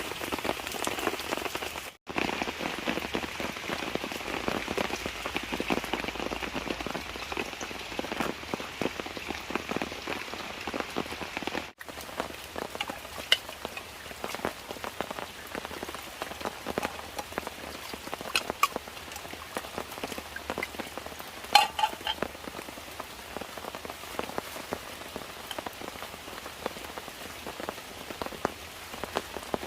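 Steady rain falling on a surface: a dense patter of drops with a few louder single drips, one standing out a little past two-thirds of the way through. The sound drops out for an instant twice in the first half.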